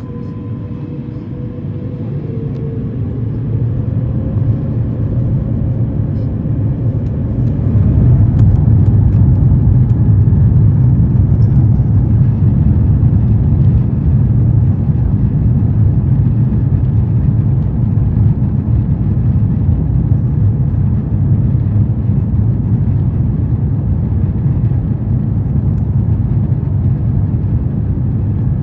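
The Airbus A350-1000's Rolls-Royce Trent XWB engines, heard from inside the cabin, spooling up for takeoff. A whine rises in pitch and grows louder over the first several seconds, then settles into a loud, steady low roar for the takeoff roll.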